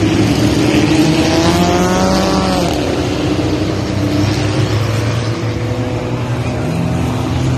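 Several car engines running hard in a short-track race, a steady engine drone with a higher engine note rising and then falling about two seconds in.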